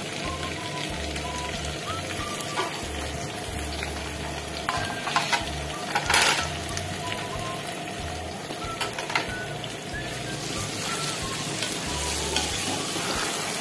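Browned onions and freshly added chopped tomatoes sizzling steadily in hot oil in a pan as they are stirred with a spoon. A few short knocks of the spoon against the pan, the loudest about six seconds in.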